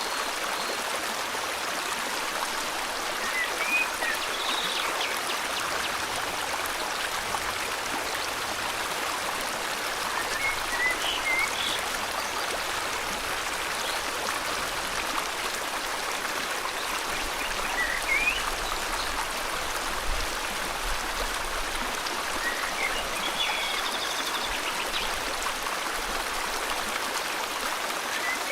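River water flowing steadily, with short bird chirps now and then, about half a dozen spread across the stretch.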